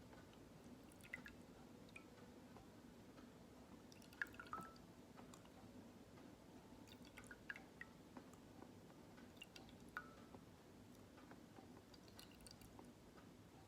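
Faint, irregular water drips and small wet clicks over a low steady hum. The loudest drips come about 1, 4 and 10 seconds in.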